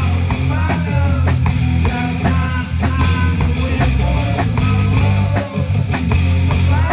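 Live rock band playing: electric guitar with bending notes over bass and a steady drum beat.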